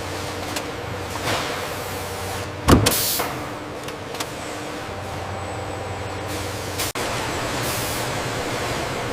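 Factory machinery running with a steady hum, with one loud clank nearly three seconds in. About seven seconds in the sound drops out for an instant and resumes.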